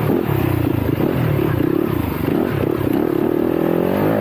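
Yamaha YZ250FX dirt bike's single-cylinder four-stroke engine being ridden hard, its pitch rising and falling with the throttle and climbing sharply near the end.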